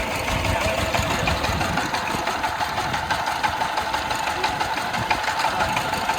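Small 13.46-horsepower Chinese-made tractor engine running steadily with a rapid, even clatter.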